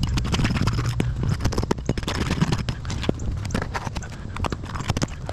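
Roofing material being pried and knocked loose by hand: a rapid, irregular run of knocks, cracks and scrapes.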